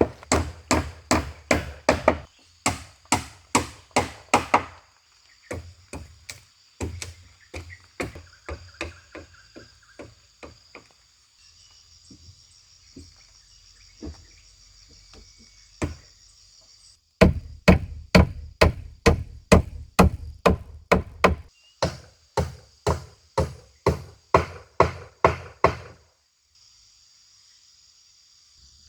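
Rapid chopping blows, about three a second, in several runs with short pauses between them. Insects buzz steadily in the background.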